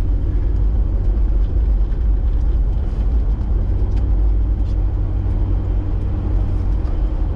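Steady low rumble of a Toyota 4x4 being driven on a snow-covered highway, engine and tire noise heard from inside the cabin.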